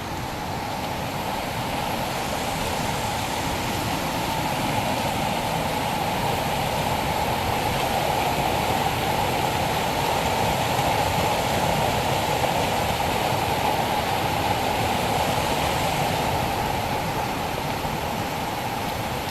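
Rushing floodwater in a rain-swollen gully running full, a steady churning rush that grows slightly louder through the middle.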